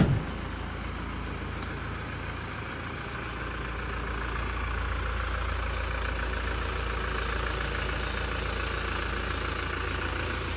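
Toyota Hilux pickup running steadily on the road, a low engine and road rumble that grows a little louder about four seconds in. A short thump comes right at the start.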